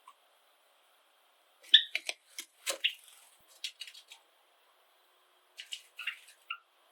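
Pet Java sparrows giving short, sharp chirps and clicking notes in two brief bursts, the loudest chirp about two seconds in.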